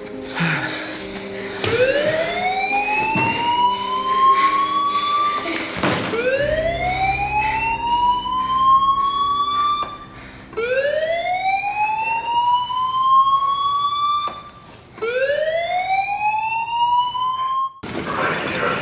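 A siren alarm wails in slow rising sweeps, four of them about four to five seconds apart. It cuts off suddenly near the end.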